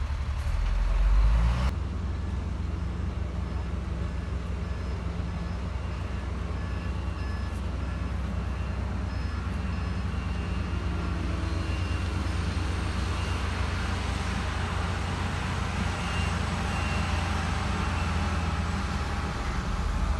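Heavy diesel earthmoving machinery running under steady load with a deep, even drone; the engine briefly swells louder about a second in. A reversing beeper sounds in a row of evenly spaced beeps for several seconds near the start.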